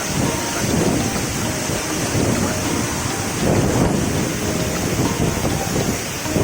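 Monsoon waterfall: a loud, steady rush of falling water with surging low rumbles, and wind buffeting the microphone.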